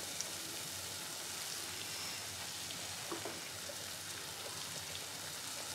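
Jalebi batter frying in desi ghee on a low flame: a soft, steady sizzle with a few faint crackles.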